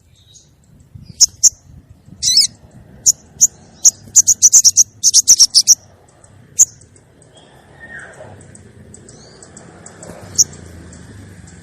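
Female sogon bird calling: very high, sharp chirps, some single and some in quick runs, with a short trill about two seconds in. It is a female's call used as a lure to draw in males.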